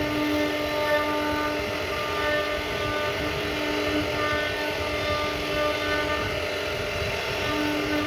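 CNC router carving wood, a steady machine noise, with sustained held tones over it that come and go.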